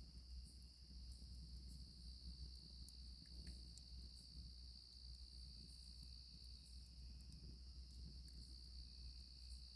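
A chorus of crickets chirring steadily and faintly, with scattered small crackles from a campfire.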